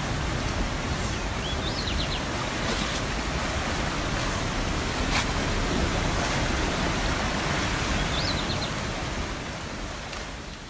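Steady rush of a river in flood, floodwater pouring and churning. A bird calls briefly twice, about a second and a half in and again about eight seconds in, and the sound fades out at the end.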